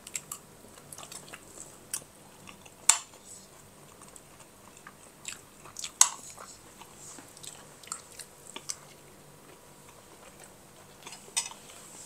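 A person chewing a mouthful of food, with a few sharp clicks scattered through it. The loudest clicks come about three and six seconds in.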